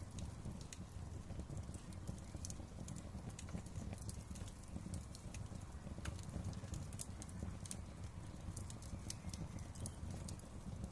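Wood fire crackling in a fireplace: irregular sharp snaps and pops, several a second, over a low steady rumble of the flames.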